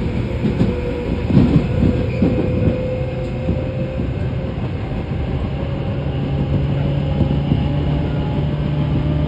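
Tobu 10030 series electric train running, heard from inside the car: a steady motor and gear hum with wheels clattering over rail joints a second or two in.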